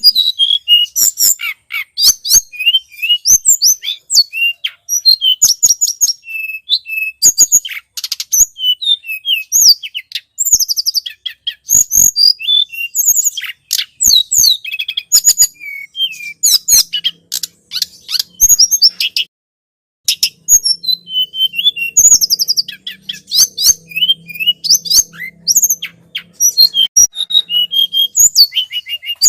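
Tledekan gunung songbird singing without let-up in fast strings of sharp, high chirps and quick up-and-down whistled notes, breaking off briefly about two-thirds of the way through.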